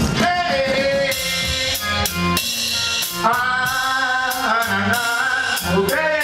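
A live band playing at a sound check: a drum-kit beat with snare and bass drum under bass notes and a held, bending melodic line.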